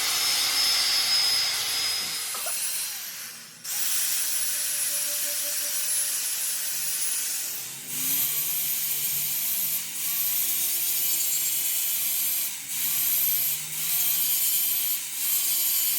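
A tool scraping or grinding metal engine parts, a harsh, mostly high-pitched rasping noise. It goes in passes of a few seconds, with short breaks between them.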